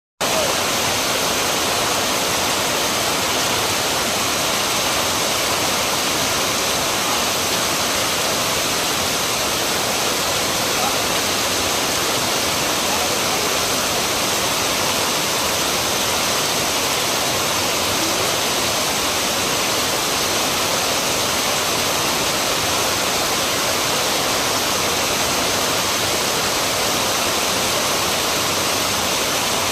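Heavy rain pouring down, a loud, steady hiss of falling water.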